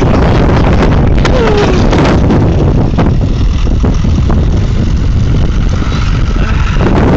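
Storm wind buffeting a phone's microphone: a loud, steady low rumble with gusty flutter.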